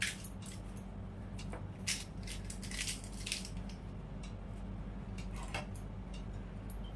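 Crisp fuchka (pani puri) shells cracking and crunching as they are broken open and handled, with scattered light clicks of plates and bowls. A steady low hum runs underneath.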